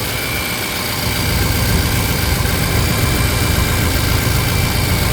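Ford F-550's 6.7-litre Power Stroke V8 diesel idling steadily, heard close with the hood up, with a faint steady whine above the rumble. The engine shows no blow-by and very little smoke, a sign of a healthy engine.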